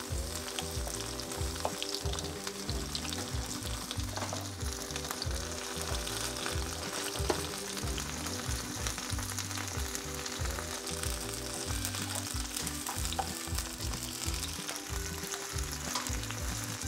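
Meatballs frying in coconut oil in a skillet, a steady sizzle with a few light clicks as a plastic spatula turns them.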